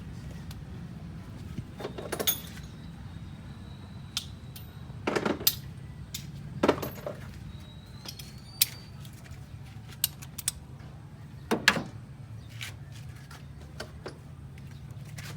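Scattered sharp metallic clinks and knocks of hand tools and parts being handled during repair work on a car, over a steady low hum.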